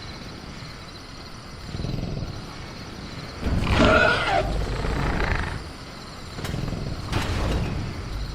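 Film-style velociraptor sound effect: low growls, with a louder pitched snarling call about three and a half seconds in that lasts around two seconds. A faint steady cricket chirr runs underneath.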